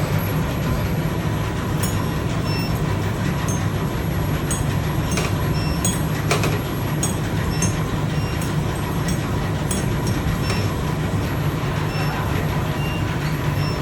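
Induction melting furnace running: a steady low hum and rumble with a thin, steady higher tone over it, and short high ticks scattered throughout.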